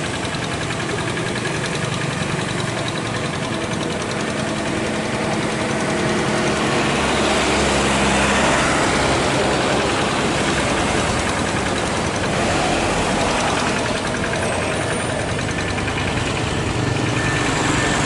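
Steady engine noise, a dense rushing sound with a low hum, swelling a little about halfway through.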